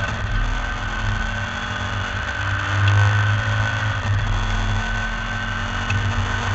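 MGB V8 race car's V8 engine running hard under load, its note swelling and easing as the driver works the throttle, with a brief dip about four seconds in.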